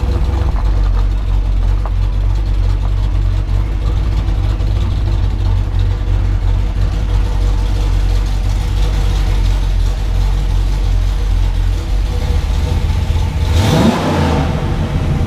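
Carbureted small-block Chevy V8 of a 1979 Camaro Z28 idling steadily at low speed as the car is reversed, with one short rising throttle blip near the end.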